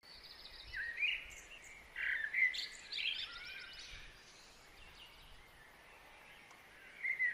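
Birds calling: clusters of chirps and short whistles that rise and fall in pitch, about one and two to three and a half seconds in and again near the end, over a faint steady hiss of outdoor background.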